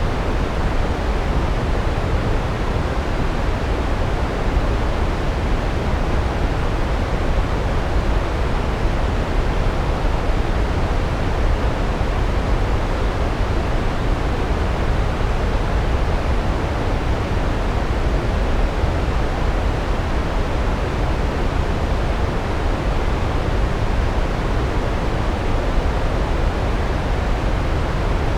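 Large waterfall's water falling steadily: an even, unbroken rush, heaviest in the low end.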